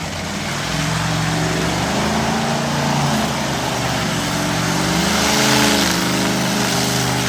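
Monster truck engine revving hard, its pitch climbing, dropping back and climbing again.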